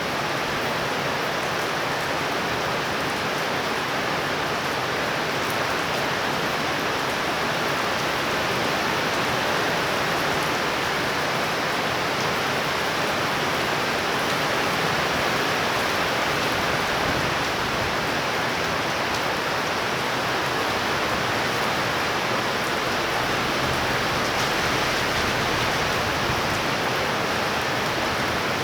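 Heavy rain pouring steadily during a tropical thunderstorm, a constant dense hiss with no breaks.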